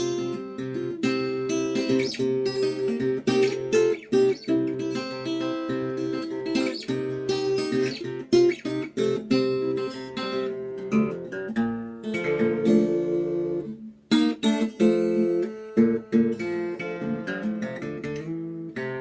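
Ashton cutaway electro-acoustic guitar played unaccompanied, strummed and picked chords with sharp strokes, with a short break about two thirds of the way through.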